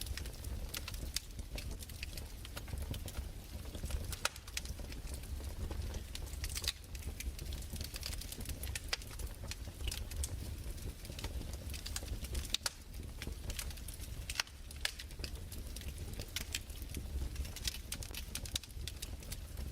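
Crackling fireplace fire: irregular sharp pops and snaps, several a second, over a low, steady rumble.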